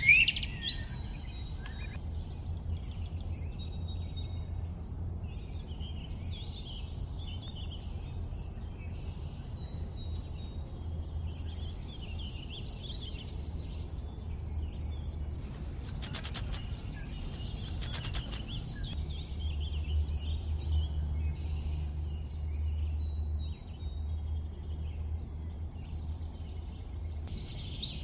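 Birdsong: small birds chirping and twittering throughout, with two louder bursts of chirps about sixteen and eighteen seconds in, over a steady low rumble.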